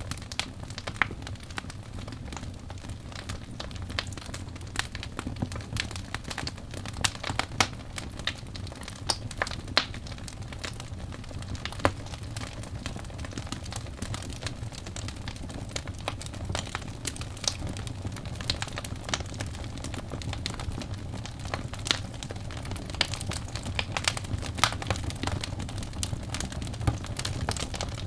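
Wood fire burning in a fireplace: a steady low rush of flame under frequent irregular sharp crackles and pops of the burning logs.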